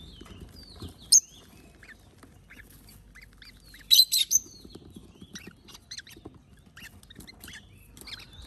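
Parrot chicks calling to be fed: many short chirps and squawks, with loud shrill squawks about a second in and a quick cluster of them around four seconds in.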